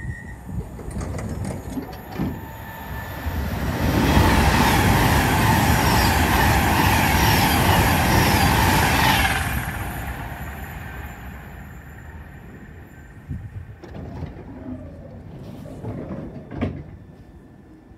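A mainline passenger train passing at speed: its roar builds about three seconds in, stays loud for around five seconds with a steady whine over the rush, then fades away.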